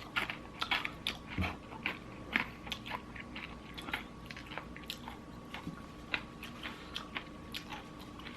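Close-miked chewing and biting into crispy fried chicken, with irregular crunchy crackles several times a second.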